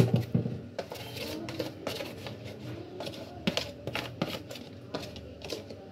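Irregular clicks and taps of a plastic container knocking against a plastic basket as squeezed bitter gourd peels are scraped into it.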